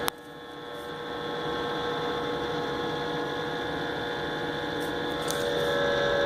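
Electric fan motor of a 1950s Superior Electric heater, model 60D, humming steadily and growing louder as it spins up, after a sharp click at the start.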